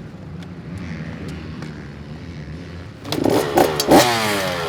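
KTM two-stroke dirt bike engine idling, then revved hard about three seconds in, its pitch climbing steeply toward the end.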